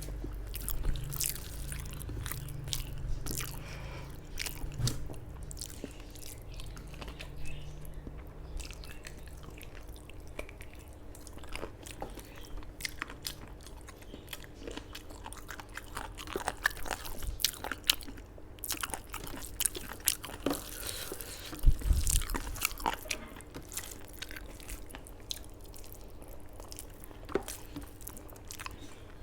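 A person eating a meal of rice and spicy chicken curry close to the microphone: steady chewing with many short crunchy bites and mouth clicks, the loudest bite about two-thirds of the way through. A faint steady hum runs underneath.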